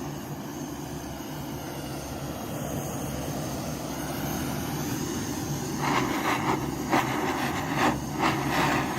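Gas torch flame running steadily while it heats a brass boiler. From about six seconds in, a series of short knocks, a few to the second, break in over it.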